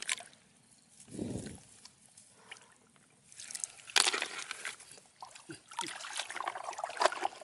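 Water sloshing and splashing in irregular bursts: a dull low thump about a second in, a sharper splash about four seconds in, then a stretch of broken, crackly sloshing.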